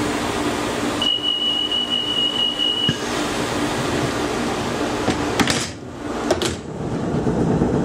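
Class 144 diesel train standing at a station stop with its engine running. A steady high beep, like a door-closing warning, sounds for about two seconds, and a couple of sharp knocks follow a few seconds later.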